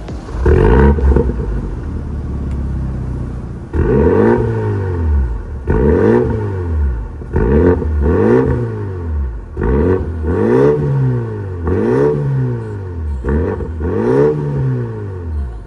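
BMW G60 530i's B48 turbocharged four-cylinder engine through an MS-R valved catback exhaust, blipped once and left to idle, then revved in a run of about seven quick throttle blips, one every two seconds or so, each rising and falling in pitch.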